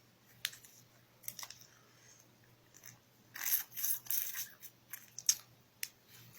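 Mouth sounds of eating a gooey jelly snack squeezed from its pouch: scattered soft clicks and a few short smacking noises, the loudest cluster a little past the middle.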